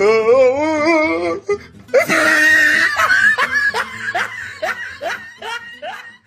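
Meme sound-effect clips: a wavering, wobbling voiced tone for about a second and a half, then a stretch of repeated laughter.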